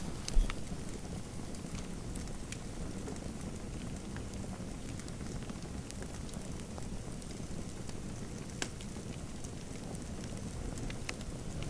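Fireplace crackling: a steady low hiss and rumble with scattered sharp pops, and one dull low thump about half a second in.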